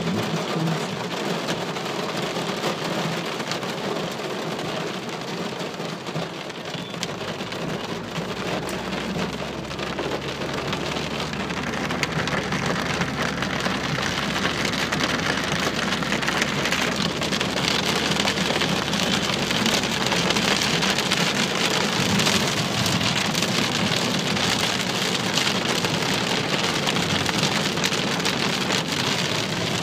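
Heavy rain pelting a car's windows and body, a dense steady patter that grows heavier about a third of the way in. A low rumble runs under it through the middle stretch.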